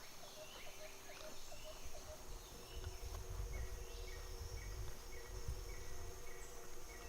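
Faint woodland ambience: a steady high insect drone, a quick run of short chirps in the first second or so, then a short call repeating about twice a second, with low wind rumble on the microphone from about halfway.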